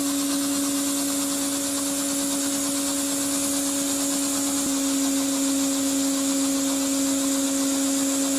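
Steady motor hum with a strong rushing hiss, as of a vacuum cleaner or air blower driving a PVC-pipe model air engine; the hum holds one even pitch.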